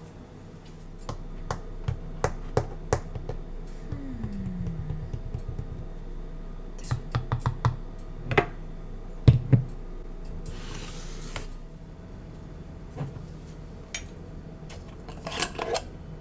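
Light taps and clicks of kitchen items being handled during breakfast preparation, at an uneven pace, with a brief hiss about ten seconds in.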